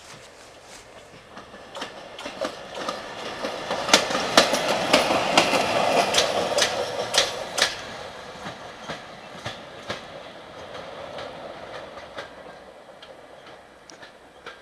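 Two-car LVT diesel railcar passing by, its wheels clicking over the rail joints; the clatter builds, is loudest about four to eight seconds in, then fades as it moves away.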